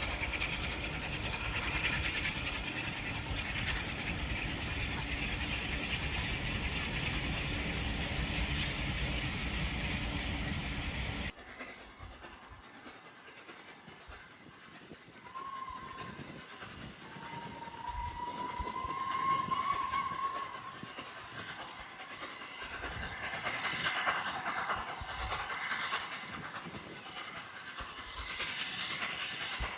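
Steam train running by, a steady rush of wheel and rail noise that cuts off abruptly about eleven seconds in. Then a quieter, more distant steam locomotive whistle sounds for several seconds, rising slightly in pitch, over faint train noise.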